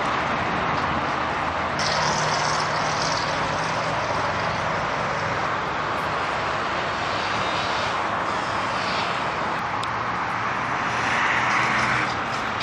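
Steady vehicle noise: an even hiss with a faint low hum underneath, brightening briefly about two seconds in and again near the end.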